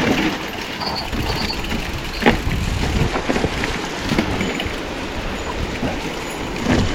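Mountain bike ride on a wet trail: steady rush of wind on the action camera's microphone with tyre and bike rattle, and a sharp knock about two seconds in.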